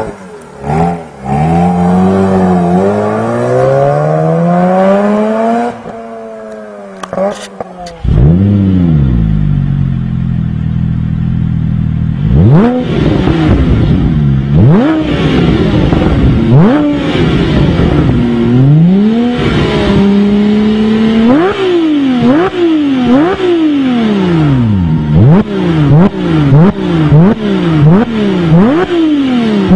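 A Mazda RX-8's twin-rotor rotary engine revving up slowly and dropping back. After a cut, a Porsche 997 GT3's flat-six engine is revved again and again: a few longer revs, then a fast series of short blips.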